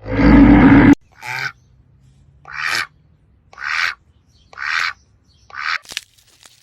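A loud low animal growl cuts off abruptly about a second in. It is followed by a bird calling five times in short, harsh honk-like calls, about one a second.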